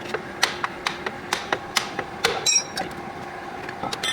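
A hammer striking metal about five times, roughly two blows a second, followed by a brief metallic ring.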